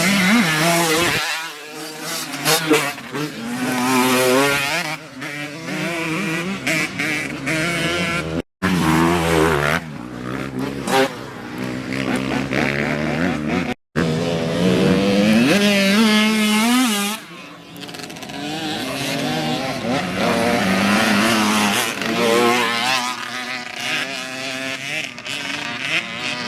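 Dirt bike engines revving up and down as bikes race past, the pitch rising and falling again and again. The sound breaks off abruptly twice.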